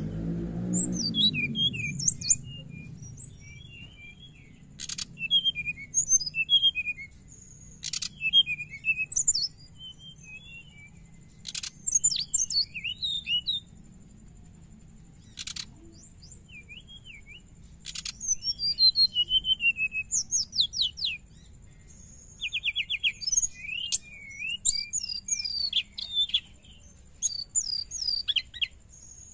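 Brown-chested jungle flycatcher (sikatan rimba dada coklat) singing in rapid, high, twittering 'ngriwik' phrases, bursts of quick chirps and slurred notes broken by short pauses.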